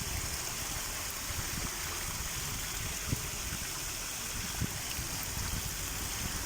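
Fountain water splashing steadily into a fish pond.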